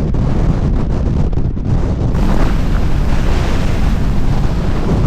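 Strong wind buffeting the microphone: a loud, continuous low rumble with no break.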